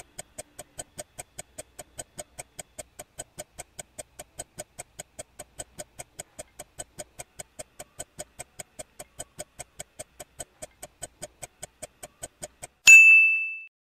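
Quiz countdown sound effect: a clock ticking evenly about four times a second, then a single bright ding near the end as the countdown runs out.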